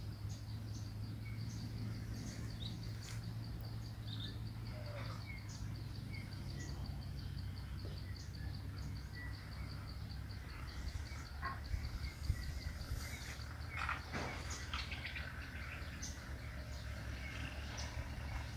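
Outdoor morning ambience: birds chirping here and there over an insect's fast, even, high-pitched pulsing trill that stops about two-thirds of the way through, with a steady low rumble underneath.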